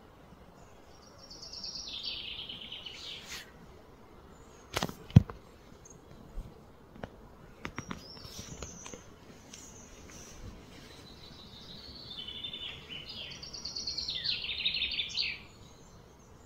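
A songbird singing two bursts of fast, high trilled song, one near the start and one in the second half. A sharp knock about five seconds in is the loudest sound, followed by a few lighter clicks.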